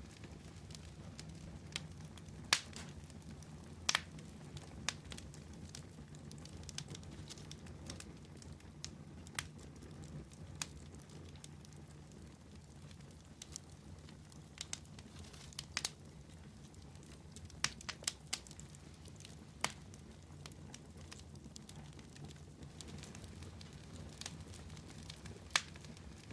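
Wood campfire burning, with sharp irregular crackles and pops over a low steady rush of the flames.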